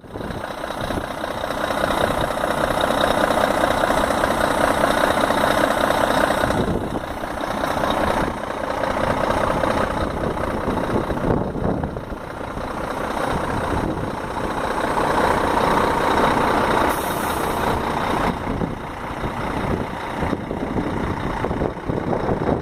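Scania dump truck's diesel engine running, its sound rising and falling several times, with a brief hiss about three quarters of the way through.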